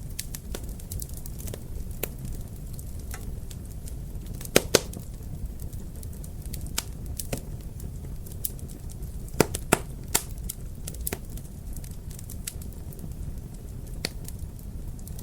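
Wood fire crackling in a fireplace, with scattered sharp pops over a low steady rumble. A cluster of louder pops comes about a third of the way in and another about two-thirds in.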